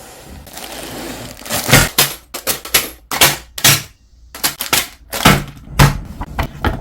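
Plastic building bricks being handled, with irregular sharp clacks and crackles, about a dozen of them, starting about a second and a half in.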